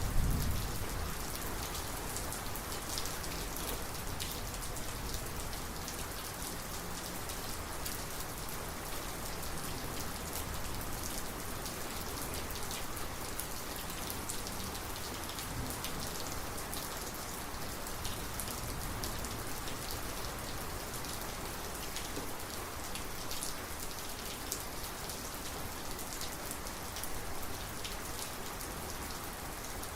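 Steady heavy thunderstorm rain with sharp individual drops ticking against a surface. A low rumble of thunder fades out in the first second.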